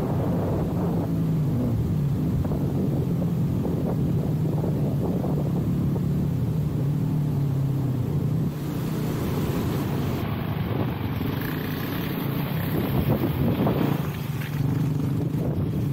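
Honda CRF-X dirt bike's single-cylinder four-stroke engine running under load on a trail, the revs rising and falling, with wind noise on the microphone. A higher hiss grows louder about halfway through.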